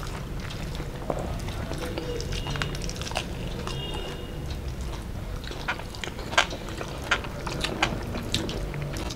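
Close-up mouth sounds of people eating with their hands: chewing, wet lip and tongue smacks and small clicks as they eat fried rohu fish and rice, with several sharper smacks in the second half.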